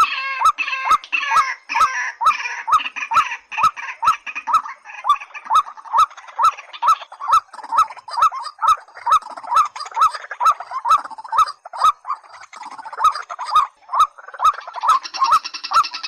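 White-breasted waterhen and watercock calls: a fast, even series of short clucking notes, about three a second, with a harsher chattering chorus over it at the start and again near the end.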